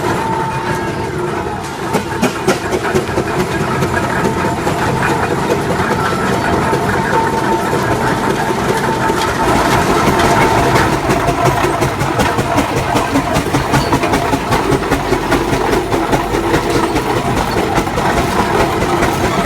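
Steam ploughing engine running, with an even, rhythmic beat of exhaust and mechanical clatter over a steady tone.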